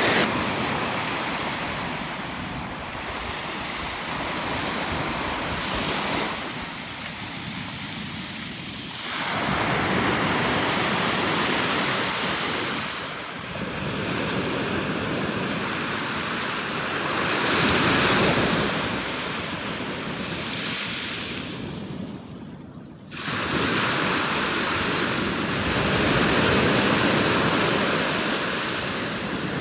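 Surf of the Sea of Okhotsk breaking and washing on the shore, the noise swelling and falling away every few seconds, with wind on the microphone. A brief lull comes a little past two-thirds of the way through.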